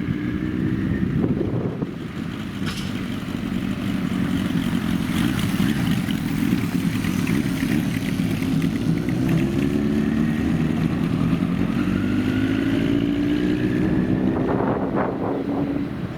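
Old motorcycle engines running and revving. The pitch climbs several times as they accelerate, with overlapping rises through the middle and later part.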